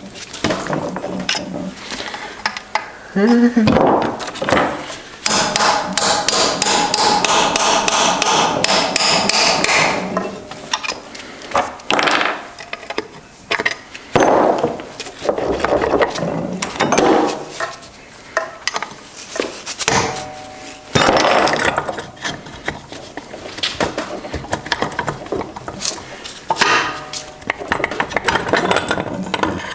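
Steel gears, shafts and tools of a Subaru six-speed manual transmission clanking and clinking as it is taken apart, with repeated sharp knocks and bursts of metallic rattling.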